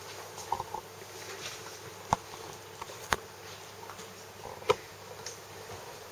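Quiet room noise broken by a few sharp knocks and clicks: three distinct ones about two, three and nearly five seconds in, and a cluster of small ticks in the first second.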